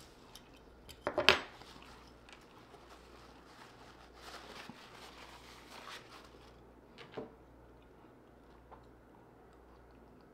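Quiet eating sounds: chewing with closed mouth, broken by one short, sharp sound about a second in and a brief click about seven seconds in.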